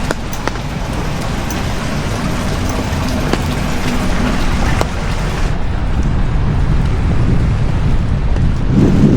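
Heavy rain falling, with scattered sharp drop hits in the first half. About five and a half seconds in, the high hiss dulls and a low rumble builds, swelling near the end.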